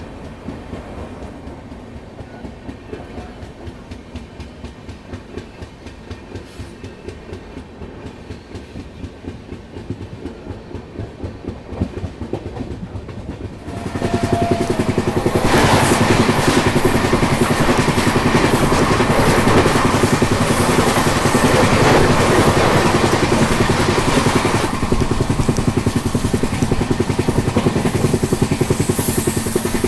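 Shatabdi Express train running at speed, its wheels clattering rhythmically over rail joints and points. About halfway through, the sound steps up suddenly to a much louder, dense rushing rattle that carries on to the end.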